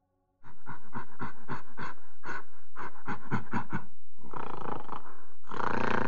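Gorilla calling: a fast run of short panting pulses, about six a second, for some three seconds, then two longer, harsher calls.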